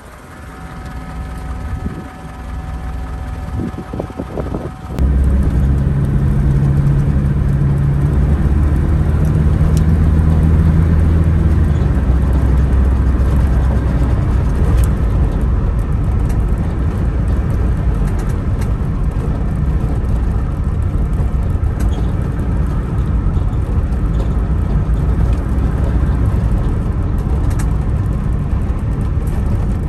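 A 1976 Pontiac Astra's four-cylinder engine. For about five seconds it is quieter, heard near the rear bumper. Then the sound jumps louder into the car driving along, with a steady low engine drone and road noise inside the cabin.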